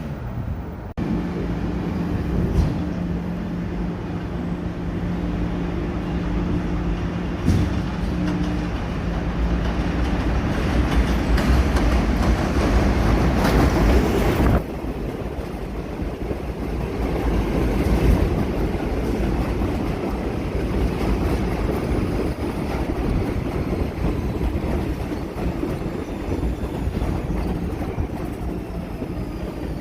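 New York City subway train running through the station: wheels on rail with a steady motor hum for the first several seconds. The noise builds and cuts off abruptly about halfway, then carries on with faint whining tones near the end.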